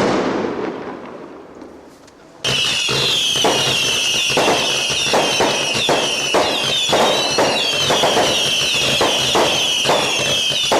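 Fireworks: a single bang that dies away, then about 2.5 s in a sudden, dense barrage of whistling fireworks, with many high whistles rising and falling over rapid crackling bangs.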